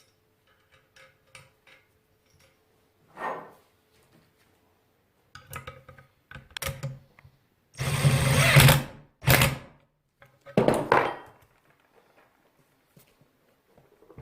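Small power tool run in several short bursts, the longest and loudest about a second long, with light knocks and clicks of handling between them.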